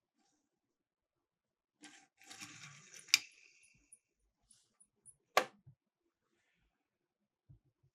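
Miniature toy cars clattering on a plastic track: a rattling run of about two seconds with a sharp click in the middle, then a single sharp knock a couple of seconds later.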